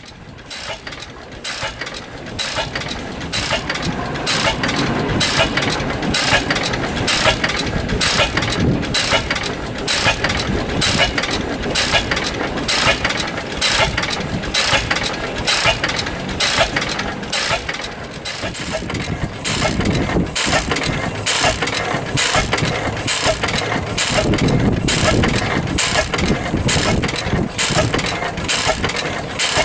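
1915 International Titan 10 hp single-cylinder stationary engine running with a steady, even beat of about two strokes a second. It is throttle-governed, so it fires on every cycle rather than hitting and missing. It grows louder over the first few seconds, then holds steady.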